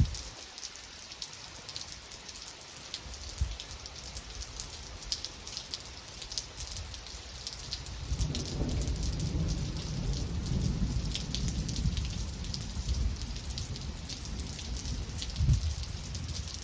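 Steady rain falling, with close drops pattering throughout. About halfway through, a long low rumble of thunder builds and carries on to the end.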